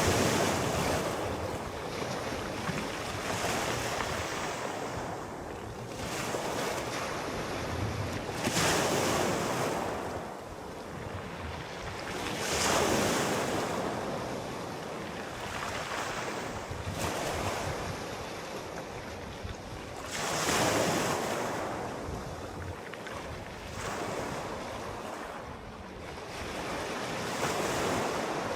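Sea waves breaking and washing in, surging and fading about every four seconds.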